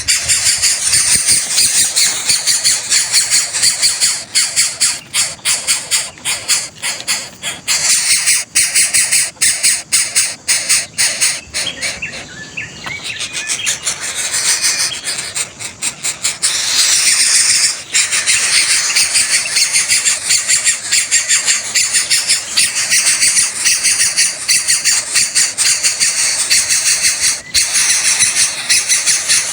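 Coucal nestlings giving a continuous stream of rapid, high-pitched begging calls. The calls ease off for a few seconds about twelve seconds in, then resume just as loud.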